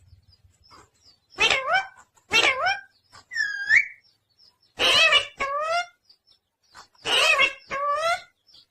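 Pet parrot giving about seven short, high-pitched calls and chatter, mostly in pairs, one of them a curling whistle near the middle.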